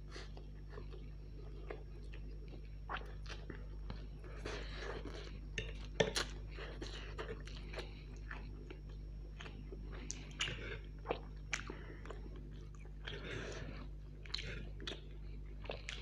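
Close-miked chewing and slurping of chow mein noodles, with many irregular wet mouth clicks and smacks. The loudest is a sharp click about six seconds in.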